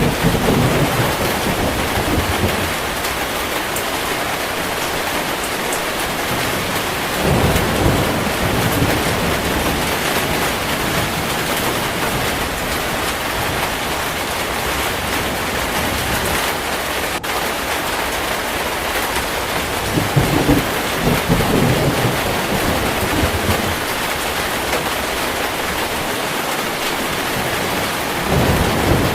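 Heavy, steady rain with several low rolls of thunder: at the start, about seven seconds in, about twenty seconds in, and again near the end.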